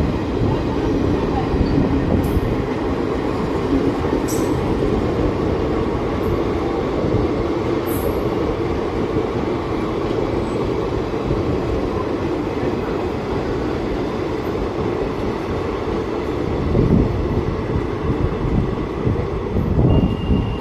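Train running on the rails: a steady, dense rumble, with a few sharp high clicks in the first half.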